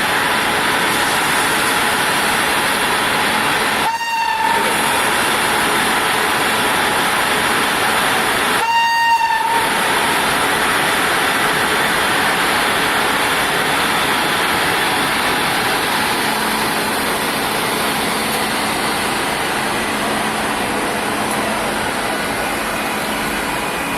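WAP-7 electric locomotive's horn sounding twice, a short toot about four seconds in and a longer blast near nine seconds, over the steady noise of the moving train.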